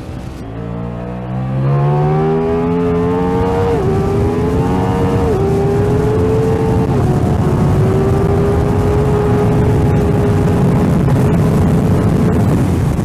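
Ducati Diavel V4 engine accelerating hard through the gears: the revs climb and fall sharply at three upshifts, then hold a steady pitch.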